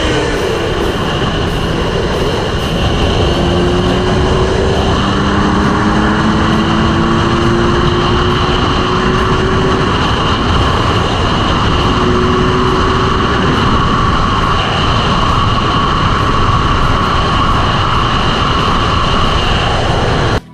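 A motorcycle being ridden at speed: a steady rush of wind noise on the microphone, with the engine's note rising slowly a few times as it pulls.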